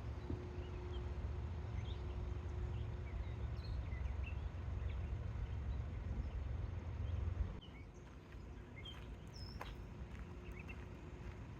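Birds chirping in scattered short calls, over a low rumble that cuts off about two-thirds of the way through.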